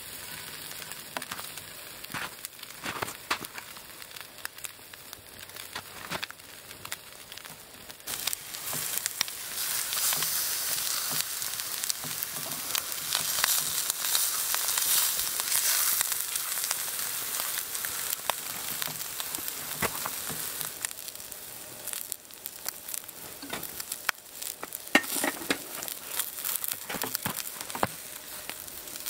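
Ground beef sizzling and frying in a cast iron skillet over a campfire, with scattered crackling pops. The sizzle grows louder about eight seconds in, then eases somewhat after about twenty seconds.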